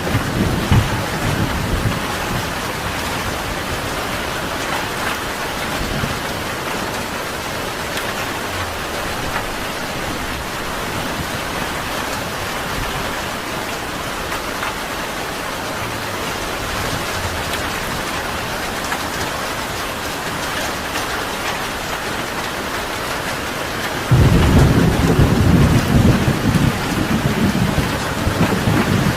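Steady, even rain falling, with thunder: a low rumble in the first second, and a louder rolling rumble that starts suddenly near the end and carries on.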